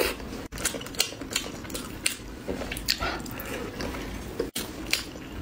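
Close-miked wet chewing and lip smacking from eating a fatty piece of pork in chili oil: irregular sharp clicks and smacks, several a second, cutting out briefly twice.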